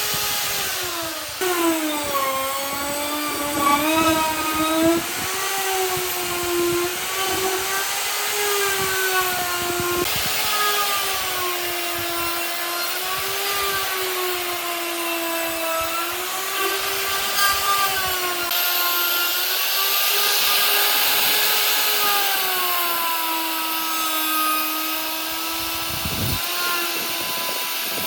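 Handheld electric power tool working wood: a steady motor whine that dips and rises in pitch as the load changes, over a grinding hiss.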